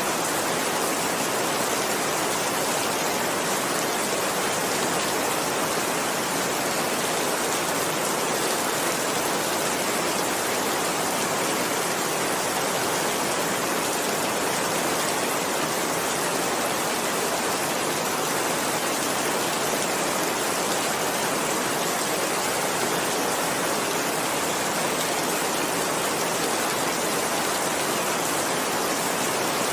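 Heavy rain falling steadily, an even dense hiss with no single drops or thunder standing out.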